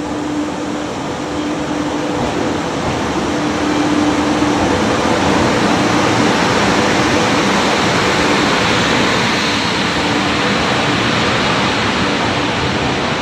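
Shatabdi Express passenger train running into a station platform, its coaches passing close by with a steady rush and rumble that swells about four seconds in. Over the first five seconds a steady hum, with a fainter higher tone above it, runs under the noise and then fades.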